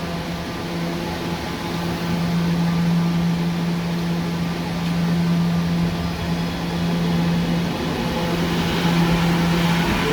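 Steady electrical hum of a Staten Island Railway subway train, with a rising motor whine beginning near the end.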